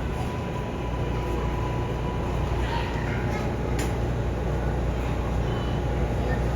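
New York City Subway L train rumbling steadily, with a faint steady whine and one sharp click about four seconds in.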